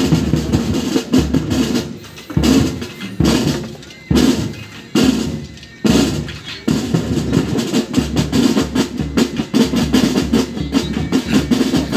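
Pipe band drum corps playing: heavy drum strokes about once a second, each dying away, then from about seven seconds in a steady run of rapid snare drumming.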